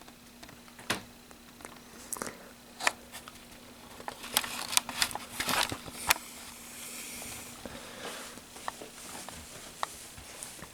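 Handling noises of plastic HO scale model train cars: scattered sharp clicks and taps, with a busier stretch of clicking and rustling in the middle.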